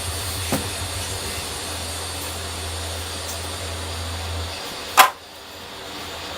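A steady low machine hum with a hiss over it, which stops about four and a half seconds in, followed by a single sharp knock.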